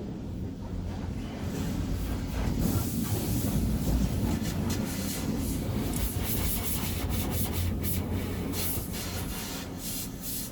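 A tunnel car wash heard from inside the car: a steady low rumble from the conveyor pulling the car along. About two and a half seconds in, water spray and wash equipment start hitting the body with a hissing patter.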